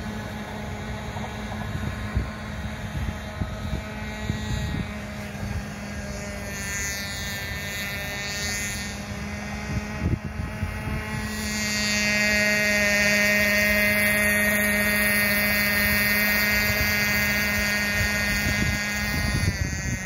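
Small nitro glow engine of an RC boat running with a steady buzzing note; about halfway through it revs up and gets louder, then eases off just before the end.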